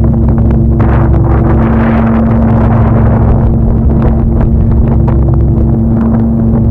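A motor running steadily at one pitch, with a constant hum over a rushing noise.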